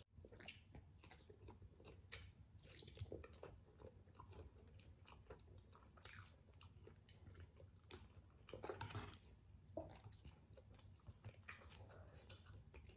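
Quiet chewing and wet mouth sounds of a person eating squid and ramen noodles, with irregular small clicks and a few louder moist smacks about nine and twelve seconds in.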